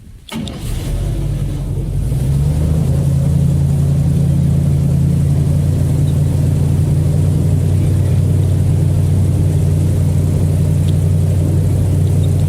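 Tour boat's engine starting up, building over the first two seconds, then running steadily with a loud low drone as the boat gets under way.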